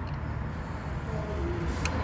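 Steady low rumble of a running motor vehicle, with a short click near the end.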